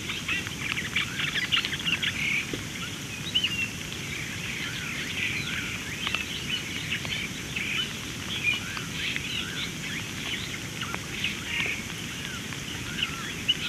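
Many birds chirping and calling at once, a dense run of short chirps and quick gliding whistles, over a steady low background noise.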